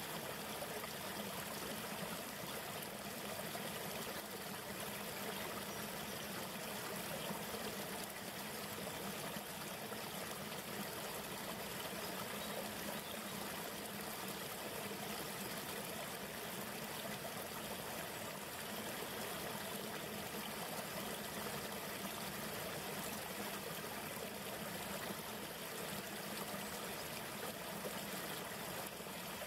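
A river flowing: a steady rush of running water, even and unbroken throughout.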